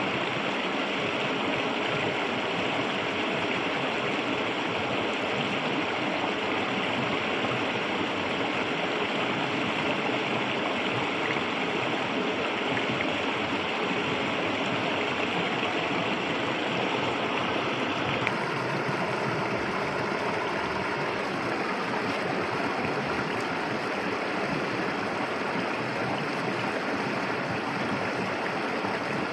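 Clear river water flowing and rushing steadily. About two-thirds of the way through, the sound abruptly turns less bright and hissy.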